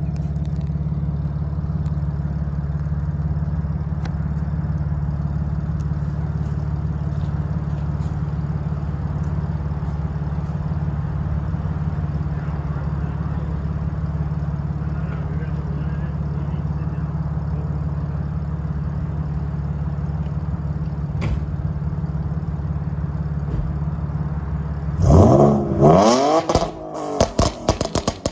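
BMW 3.0-litre straight-six with headers and a muffler delete idling steadily, then revved hard near the end: one long climb followed by several quick blips of the throttle.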